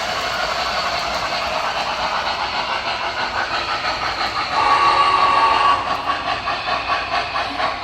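Steam-locomotive sound effects from an O-scale MTH K4s model's on-board sound system: a steady hiss. A little past halfway, a steady tone sounds for about a second, followed by a regular chuffing rhythm.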